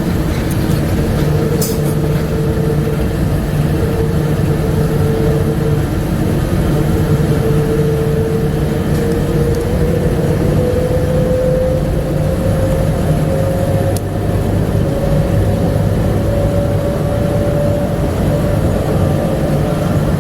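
Bombardier APM100 rubber-tyred people-mover car running, heard on board: a steady rumble with a motor whine that slowly rises in pitch as the train gathers speed.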